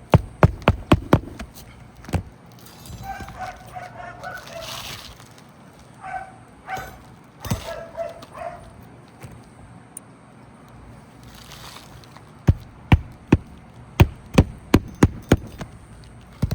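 Hammer driving roofing nails into hard, brittle asphalt shingles: a quick run of strikes at the start, a couple of single blows in the middle, and a run of about eight strikes near the end. Between the blows come a few short pitched calls.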